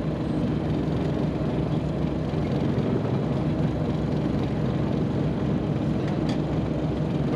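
Steady low drone of a fishing boat's motor running.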